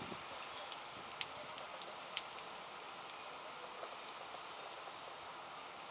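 Steady rain falling during a thunderstorm, with sharp ticks of nearby drops landing, most of them in the first few seconds.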